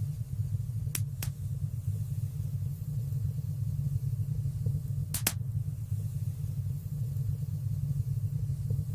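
Wood fire burning in a fireplace: a steady low rumble of flames with sharp crackling pops, two close together about a second in and a louder one about five seconds in.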